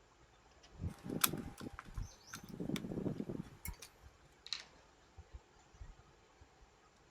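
Plastic parts of a Moulinex blender base being handled and pressed together: rubbing and scraping with a few sharp clicks, mostly in the first half, then quiet handling.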